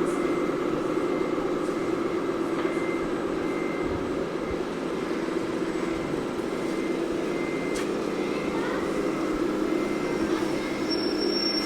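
Steady engine sound of an RC model truck or tractor, played through its onboard electronic sound module.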